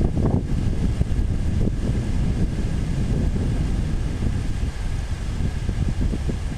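Typhoon wind buffeting the microphone in irregular gusts: a loud, low rumble that swells and drops.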